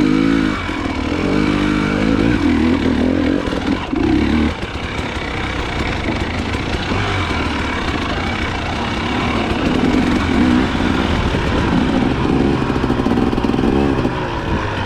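Dirt bike engine running under load as it is ridden, its pitch rising and falling with the throttle, with rev changes near the start and again shortly before the end.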